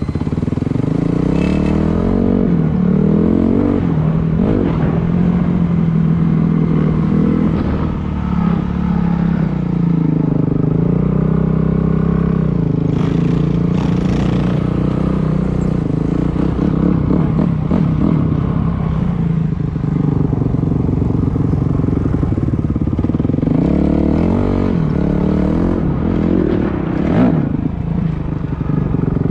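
Dirt bike engine running under load while riding, the revs rising and falling as the throttle opens and closes, with a few clattering knocks along the way.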